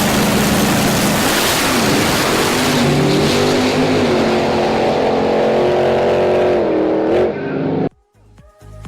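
Race car engine at full throttle in a drag run, its pitch dipping and climbing again as it shifts gears, cut off abruptly near the end.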